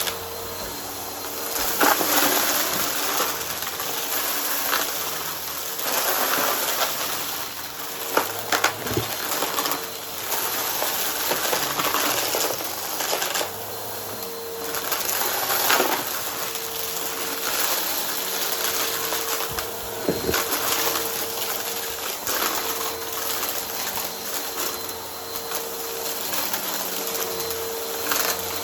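Vacuum cleaner running with its brushroll spinning, its motor humming steadily under an airy hiss, while it sucks up crunchy debris that crackles and rattles through the brushroll and hose.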